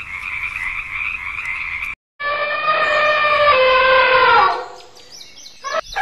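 A steady, dense chorus of frogs calling, which cuts off about two seconds in. After a brief silence, an elephant trumpets loudly for about two seconds, its pitch sliding slightly down, and a few short high calls follow near the end.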